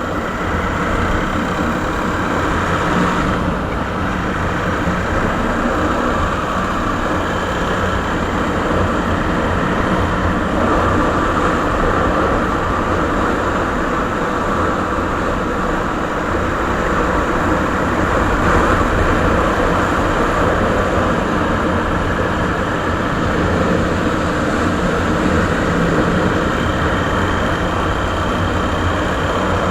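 Suzuki Savage (Boulevard S40) 650 cc single-cylinder four-stroke engine running steadily through its original stock exhaust.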